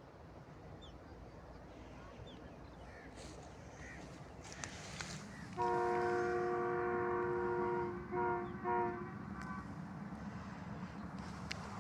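A two-note horn sounds one long blast, then two short toots, over a low vehicle rumble that grows louder through the first half.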